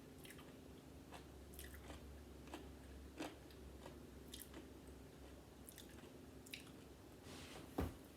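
Faint chewing and crunching of a thin homemade potato chip crisped in the microwave, with soft scattered crackles and one louder crunch near the end.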